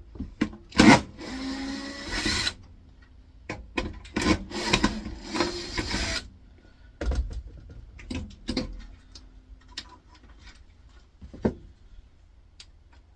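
Clicks and knocks of metal and plastic parts being handled and pulled apart while the air fryer's synchronous motor is removed, with two bursts of a small motor running, each about a second long, in the first half.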